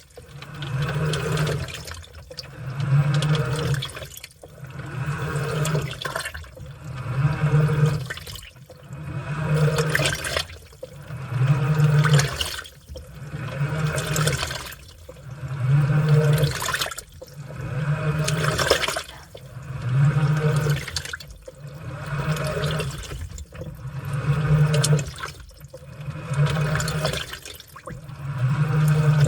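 Washing machine in its wash cycle: the motor hums as it turns the load through the water, with water sloshing, in regular strokes about every two seconds with a short pause between each.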